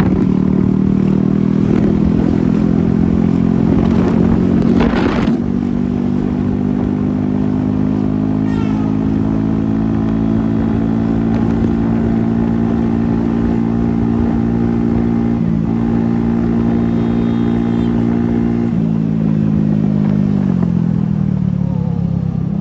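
Scooter engine running at a steady pace, its note rising slightly about five seconds in and falling away near the end as the scooter slows.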